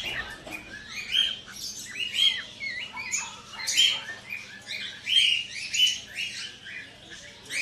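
Many caged aviary birds chirping: a continual flurry of short, overlapping calls, some sliding in pitch.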